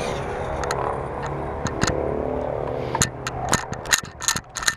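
1/5-scale electric RC monster truck running, a steady hum from its motor and drivetrain. About three seconds in the hum drops away and a run of sharp clicks and clatters follows.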